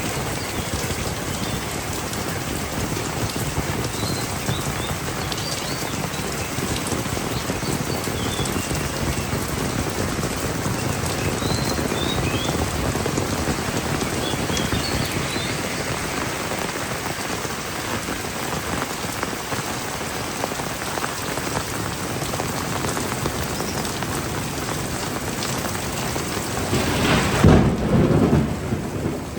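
Heavy rain falling steadily, with a loud rumble of thunder swelling up near the end.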